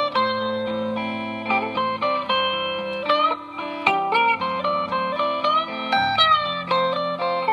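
Gretsch G3161 hollow-body electric guitar played through a Fender Excelsior tube amp: a run of picked notes with bends and slides over lower held notes.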